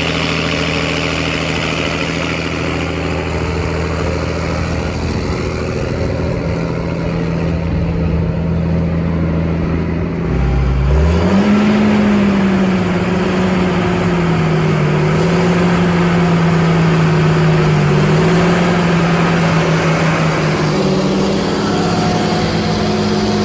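Cartoon vehicle engine sound effect: a steady hum like an idling engine, then about ten seconds in it revs up with a rising pitch and runs on at a higher pitch that wavers slightly.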